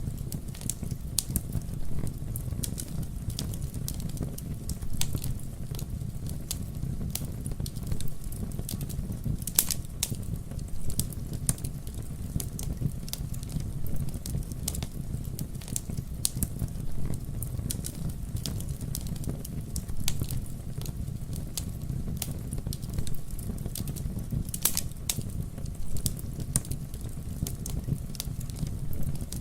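Campfire burning with a steady low rumble and irregular sharp pops and crackles of burning wood, a louder pop about a third of the way in and a cluster near the end.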